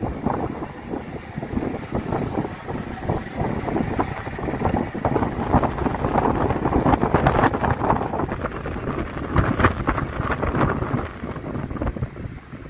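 Electric multiple-unit trains running over the station's tracks and pointwork, a continuous rumble with rail clatter, with strong wind buffeting the microphone.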